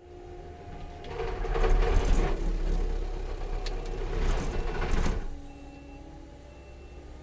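Bradco brush cutter on a Kubota compact track loader: the machine runs at a steady hum. About a second in, the cutter chews loudly into wood and brush for about four seconds, then drops back to the steady hum.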